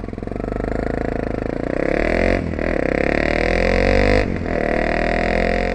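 Honda CRF300's single-cylinder engine accelerating under load, its pitch rising through the gears. It dips briefly twice, a little over two seconds in and about four seconds in, as gears are shifted.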